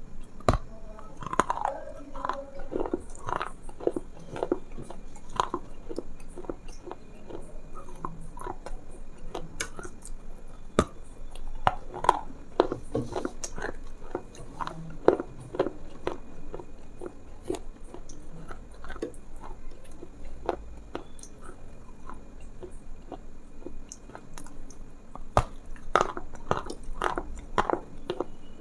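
Close-miked chewing: many short, irregular crunchy clicks and smacks.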